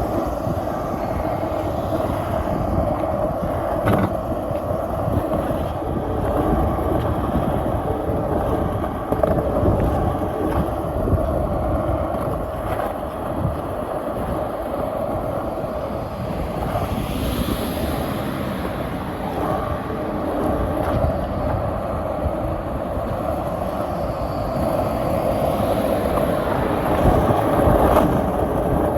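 Skateboard wheels rolling steadily over pavement, a continuous gritty rumble with a few small knocks from joints in the surface.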